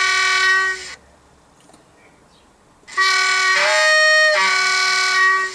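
Class 47 two-tone horn played by a Southwest Digital LokSound 4 decoder through an OO-gauge model locomotive's standard speaker. One blast ends about a second in, then a longer blast starts about three seconds in, switches to the other tone in the middle and goes back again.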